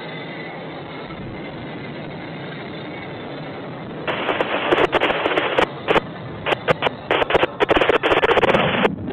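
A steady hiss, then about four seconds in, loud choppy crackling with sharp pops and brief dropouts.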